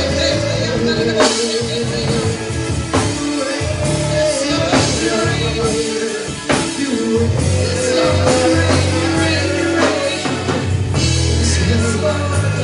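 Live worship band playing: drum kit, bass and sustained keyboard or guitar chords, with singing.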